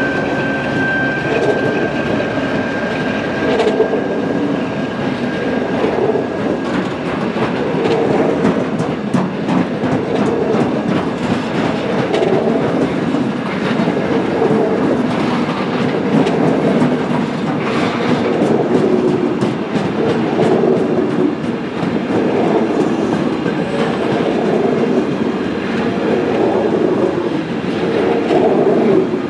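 DB class 232 'Ludmilla' diesel locomotive passing close by, its engine hum and a high steady whine dying away over the first six seconds or so. Then a long train of loaded flat wagons rolls past with a steady rumble and clacking wheels.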